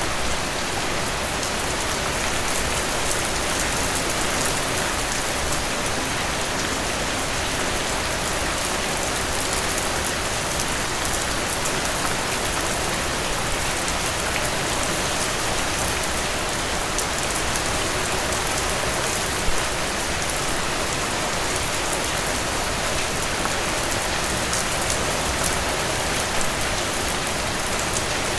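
Steady rain falling and pattering on a surface, with many fine drop ticks and an occasional louder drip, one about two-thirds of the way through.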